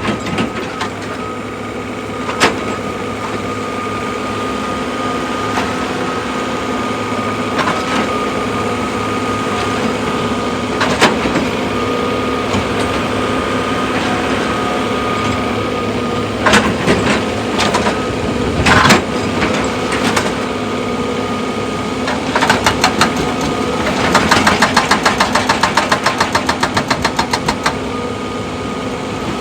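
Excavator's engine running steadily, with scattered sharp knocks, a cluster of them past the midpoint and a fast run of repeated knocks near the end.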